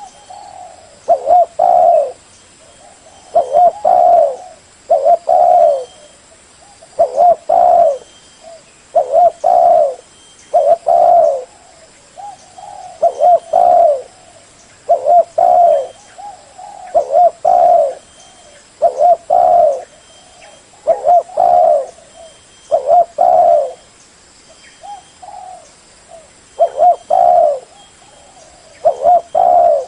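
Spotted dove cooing over and over: loud phrases of a few low coos, repeating every second or two with short pauses between.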